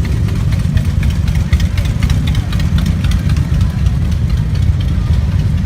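Many motorcycle engines running together at low speed in a mass ride, a dense, steady low rumble with scattered light clicks.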